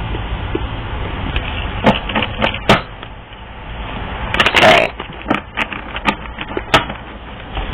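Tarot cards being handled and shuffled: a string of sharp clicks and taps, with a short rustling burst about halfway through.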